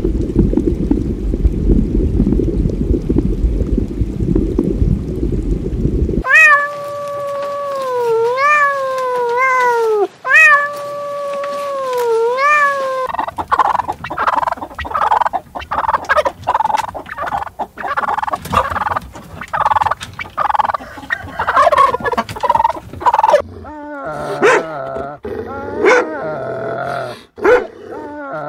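A string of animal sounds. A low steady rumble comes first, then a drawn-out animal call repeated about four times with its pitch dipping and rising. Then turkeys gobble in fast, dense chatter, and near the end dogs whine and growl.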